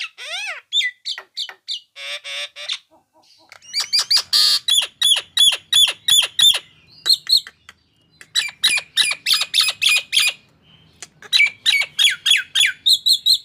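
Nias hill myna calling loudly in runs of quick, sharp repeated notes, about four or five a second. The calls come in several phrases of a few seconds each, with short pauses between.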